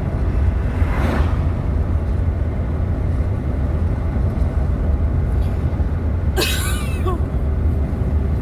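Steady low rumble of road and engine noise inside a moving car. A short hiss-like burst comes about a second in, and a brief high sound that bends in pitch comes a little after six seconds in.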